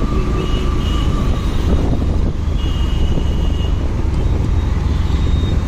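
Motorcycle under way: steady engine and road rumble with wind noise on the microphone. Two brief high-pitched tones come through, about half a second in and again about two and a half seconds in.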